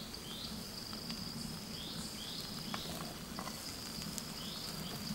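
Insects trilling steadily at a high pitch, with short rising chirps repeated every second or so, over a low steady hum and a few faint scattered clicks.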